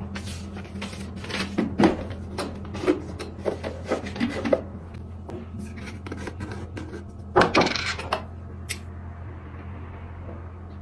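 A run of light knocks, taps and clicks from objects being handled, then a louder rubbing scrape about seven seconds in and a single click soon after, over a steady low hum.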